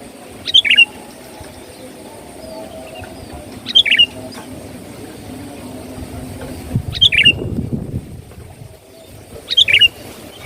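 Sooty-headed bulbul (kutilang) singing: four short phrases of a few quick notes, about one every three seconds. A low rumble comes in about two-thirds through.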